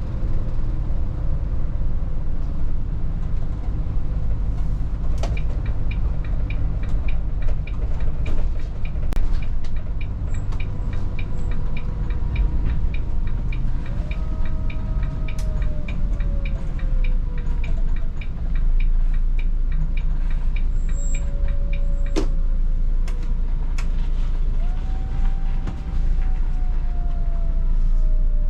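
Cabin sound of a Volvo 8900 city bus under way: a steady low engine and road rumble, with a rapid regular ticking of about three a second for a dozen seconds or so, a few sharp knocks and rattles, and twice a whine that slides down in pitch.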